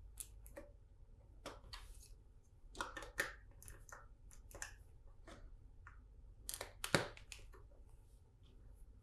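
Plastic LEGO bricks being handled and pressed together: a string of small clicks and taps, with a louder snap about seven seconds in.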